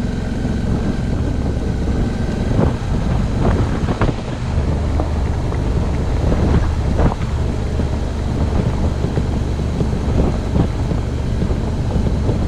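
Suzuki V-Strom motorcycle engine running at a steady cruise on a dirt road, under heavy wind noise on the microphone. A few sharp knocks and rattles come through as the bike rides over bumps.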